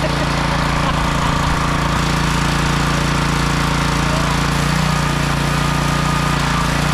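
Small gasoline engine of a Troy-Bilt pressure washer running steadily after its carburetor was cleaned, with a slight change in its tone about five seconds in.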